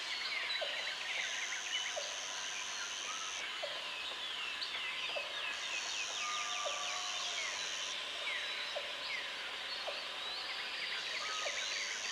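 Tropical forest ambience: many birds chirping and whistling over one another, with a high, even insect buzz that comes on for about two seconds and stops, three times.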